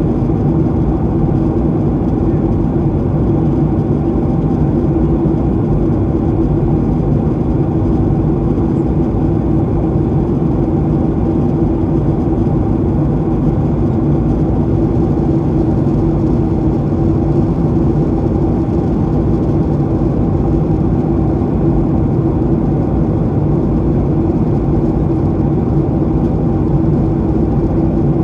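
Steady cabin noise inside a Boeing 737-800 in flight: the drone of its CFM56-7B turbofan engines with a constant low hum and rushing air. It is even throughout, with no change in pitch or level.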